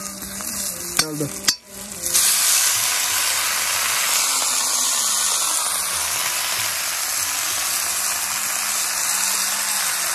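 Chopped vegetables frying in hot oil in a kadhai over a wood fire, stirred with a ladle: after a few light clicks of the ladle, the sizzle jumps to a loud, steady hiss about two seconds in, as the vegetables go into the oil.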